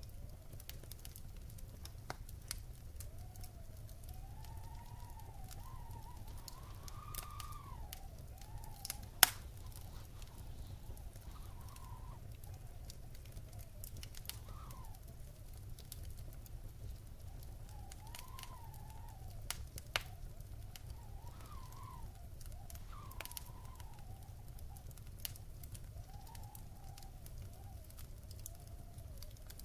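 Wood fire crackling and popping in a fireplace over a low steady rumble, with one sharp loud pop about nine seconds in. A faint wavering tone rises and falls in the background.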